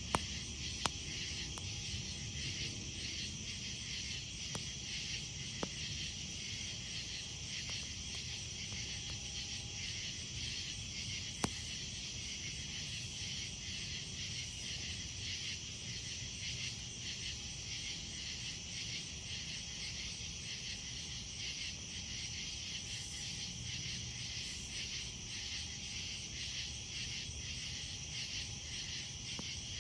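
Night insects chirping in a steady, dense pulsing chorus, with a wood campfire burning beneath it and giving a few sharp crackling pops, the last of them about 11 seconds in.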